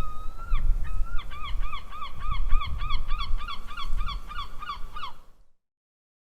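Seagull's long call: one drawn-out note, then a rapid run of short, falling notes, about three or four a second, over a low rumble. It cuts off suddenly a little after five seconds in.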